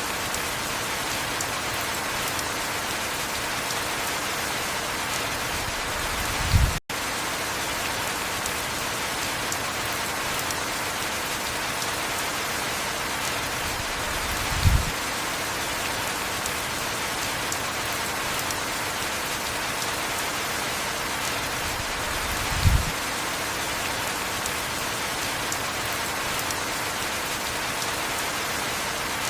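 Steady heavy rain hissing without a break. A short low thud comes about every eight seconds, three times in all, and the sound drops out for an instant about seven seconds in.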